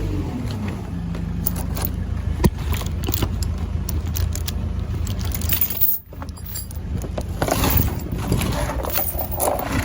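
A heavy log chain clinking and rattling as it is unhooked from a log, over an engine running steadily in the background.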